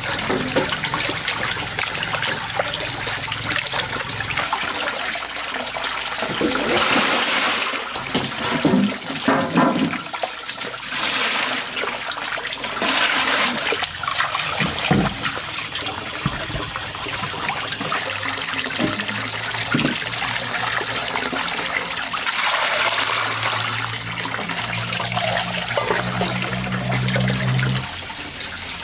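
Running water splashing and gurgling, swelling into louder splashes several times. A low steady hum joins in near the end.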